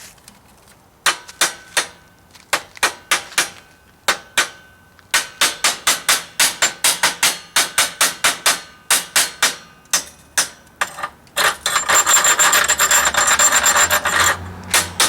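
Chipping hammer knocking slag off a fresh stick weld bead on steel plate: sharp metal strikes, a few at first, then about two to three a second. Near the end it gives way to a steady scraping, as the bead is scrubbed clean.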